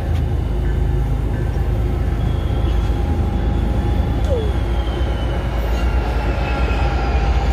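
MBTA commuter rail train of passenger coaches rolling past, a steady rumble of wheels on the rails with faint high wheel squeal that slides slowly down in pitch.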